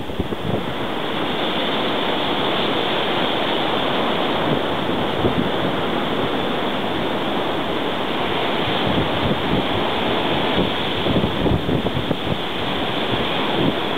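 Blizzard wind blowing hard and steadily, with gusts buffeting the microphone.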